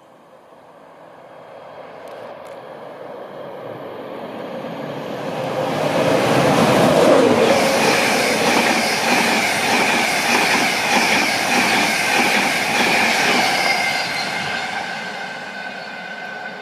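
InterCity 225 express, a Class 91 electric locomotive hauling Mark 4 coaches, passing through at speed. A rising rush as it approaches, loudest as the locomotive goes by about six seconds in, then the rushing air and wheel noise of the coaches with a steady high ringing tone. The sound fades as the train draws away.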